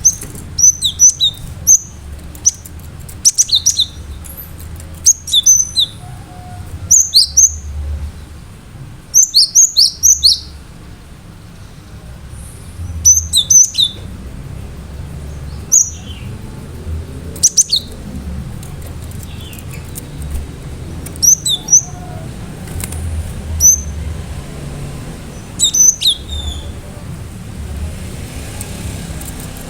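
Cinereous tit (gelatik batu) singing: short phrases of sharp, high whistled notes, repeated in quick bursts every one to two seconds over a low background hum.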